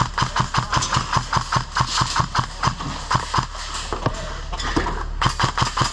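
KWA T6 airsoft rifle firing rapid single shots, about five a second, with a short break about four and a half seconds in and then a quick cluster of shots.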